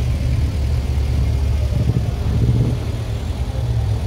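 Vintage car engine running at low speed close by, a steady low rumble.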